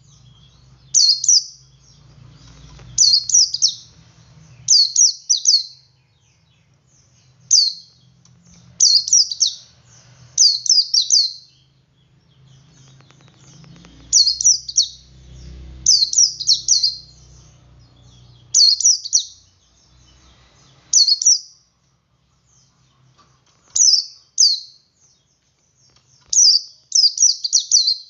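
Male pleci (white-eye) singing in its 'ngalas' style: short, high-pitched bursts of chirping notes, single or in quick runs of two to four, repeated every second or two, with a faint low hum underneath.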